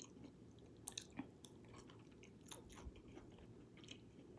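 Faint chewing and mouth sounds of a person eating, with a few soft clicks scattered through.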